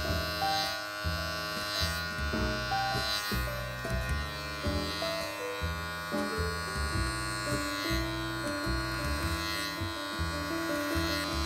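Electric beard trimmer buzzing steadily as it is drawn down the side of a short beard, mixed with background music that has a regular beat.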